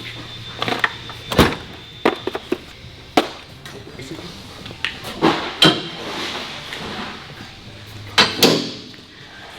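Irregular sharp metal knocks and clanks, about ten of them, from tools and parts being handled during work on a truck.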